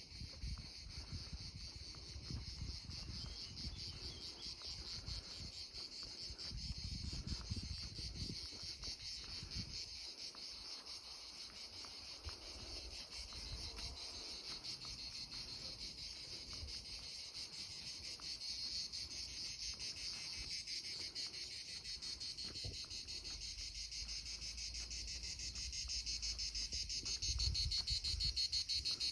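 Insects such as crickets chirring steadily in a high, rapidly pulsing trill that grows a little louder near the end. A low rumble of wind on the microphone comes and goes.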